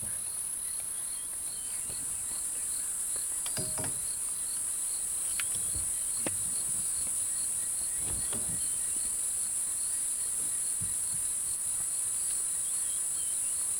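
Night insects trilling steadily in the bush, with a cricket chirping at an even rhythm of a little over two chirps a second. A few short cracks and thumps come and go through it.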